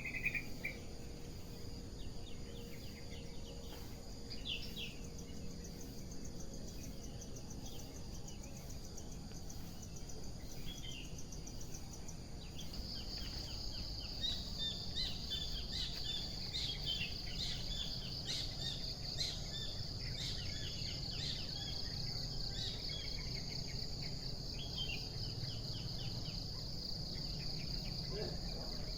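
Morning outdoor ambience of short bird chirps and calls, scattered through, with an insect's steady high trill setting in about 13 seconds in and running on beneath them, over a low background rumble.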